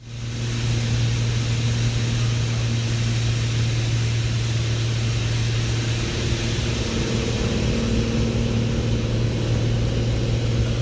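A steady engine drone: a constant low hum over a wash of rushing noise, starting abruptly and holding level.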